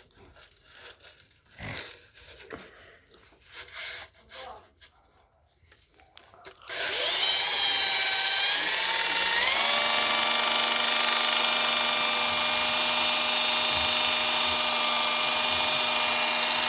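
A few light knocks and handling sounds, then about seven seconds in an electric power tool switches on. Its motor whine rises in pitch as it spins up, then it runs steadily at full speed.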